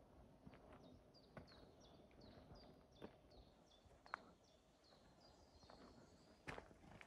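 Faint songbird singing: a quick series of high, downward-sliding notes, about three a second, for several seconds. A few scattered footsteps crunch on a gravel path.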